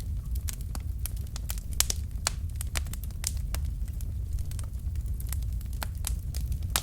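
Wood fire burning in a fireplace: logs crackling and popping in sharp, irregular snaps over a steady low rumble of the flames.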